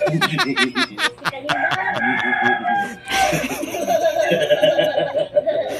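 A man and a child laughing hard: a quick run of laugh pulses at first, then a long, high-pitched, drawn-out laugh through the second half.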